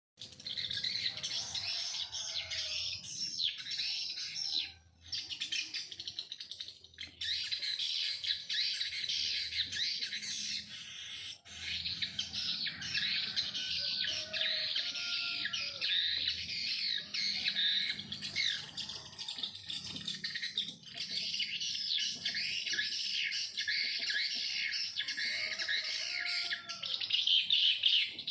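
Many small birds chirping and twittering at once in a dense, continuous chorus, with short breaks about five and eleven seconds in.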